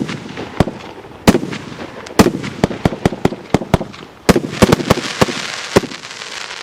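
A 38-shot, 1–1.2-inch consumer fireworks cake firing: sharp bangs of launches and bursts come a few each second. About two-thirds of the way in, a dense crackling hiss of crackling stars joins them.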